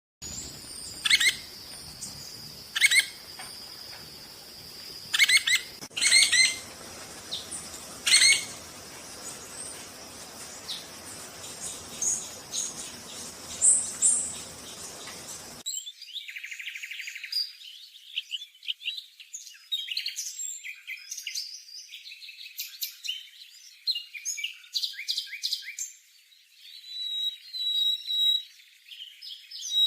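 Yellow-fronted woodpecker calling: sharp, separate calls every second or two, over a steady high tone. About halfway through, the low background drops out abruptly, and a faster run of chirps and calls follows.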